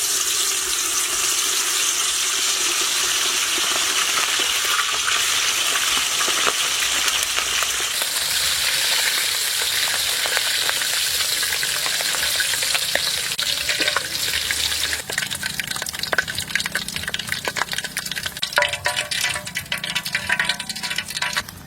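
Chicken feet frying in hot oil. A loud, steady sizzle gives way about halfway through to scattered crackling and popping that grows more frequent toward the end.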